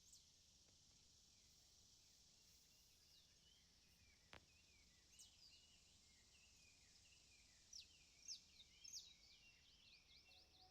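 Faint bird calls: short chirps falling in pitch, sparse at first and coming more often in the second half, with a single faint click a little after four seconds in.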